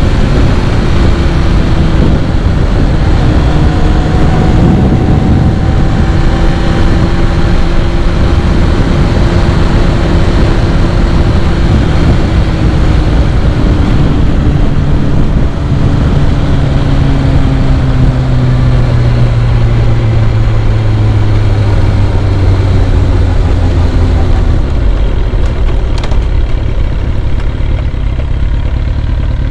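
Vehicle engine running under steady loud road or wind noise; its pitch slowly falls over the second half.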